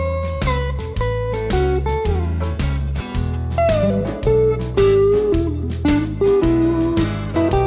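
Clean electric guitar playing a blues lead, a 1989 Fender Telecaster's single-coil pickups through a Vox AC10C1 tube amp, with bent and sliding notes. A blues shuffle backing track with bass and drums plays underneath.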